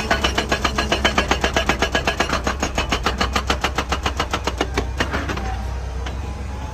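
Excavator-mounted hydraulic breaker hammering rock in a rapid, even series of blows, about ten a second. It stops about five seconds in, leaving the excavator's diesel engine running.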